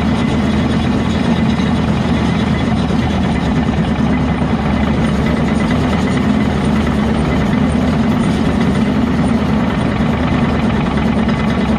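Heavy diesel earthmoving machinery running steadily, its engine note unchanging throughout.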